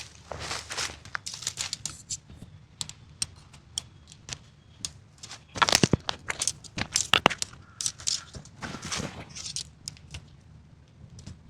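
Irregular rustling, crinkling and sharp little clicks from things being handled, in uneven clusters, loudest about six and seven seconds in.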